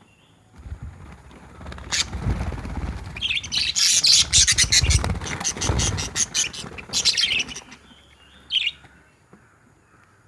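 Pet budgerigars chirping and squawking in quick, dense bursts, busiest in the middle with a last burst near the end, over a low rumbling noise.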